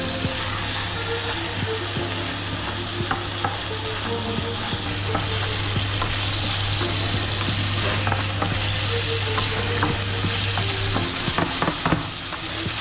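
Chicken pieces sizzling as they fry in hot oil, stirred in the pan, with scattered clicks and scrapes of the utensil against the pan. A steady low hum underneath stops about eleven seconds in.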